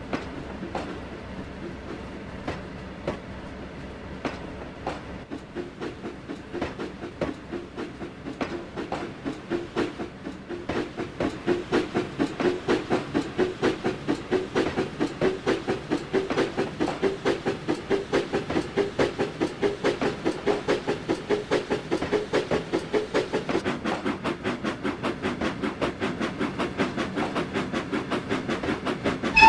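Flying Scotsman, an LNER A3 three-cylinder Pacific steam locomotive, working a train. Its rhythmic beats start slow and sparse, then get quicker and louder over the first ten seconds or so as the train gathers speed, and settle into a fast, even rhythm.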